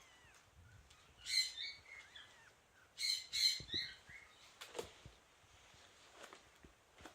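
Kitten mewing: short, high-pitched cries, one about a second in and two close together around three seconds in.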